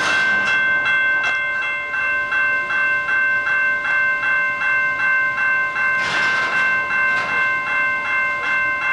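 A railway bell ringing steadily and quickly, about three strokes a second, over the sound of a freight train on the tracks.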